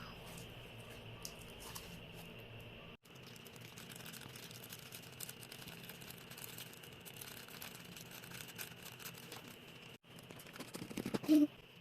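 Sticky homemade glue slime being kneaded and squeezed by hand, making many small wet clicks and crackles, with a louder burst of crackling near the end.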